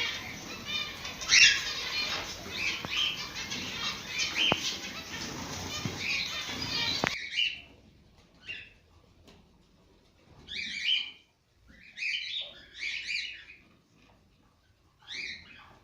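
Many cockatiels chirping and chattering together over a busy rustling noise, which cuts off abruptly about seven seconds in. A few separate short cockatiel calls follow, a second or two apart.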